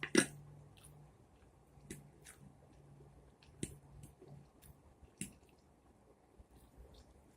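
Close-up mouth sounds of a person chewing food: wet squishy smacks and clicks, the loudest just after the start and then softer ones every second or so.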